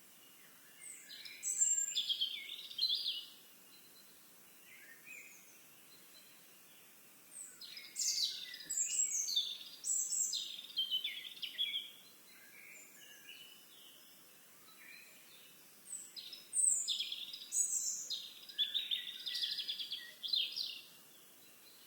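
A songbird singing three long, varied phrases of rapid chirps and trills, each a few seconds long and spaced several seconds apart, over a faint steady outdoor hiss.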